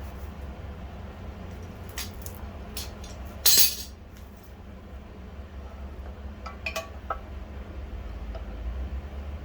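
Small metal parts and tools clinking and knocking on a workbench, with a short loud scraping hiss about three and a half seconds in and a few ringing clinks near the end. A steady low hum runs underneath.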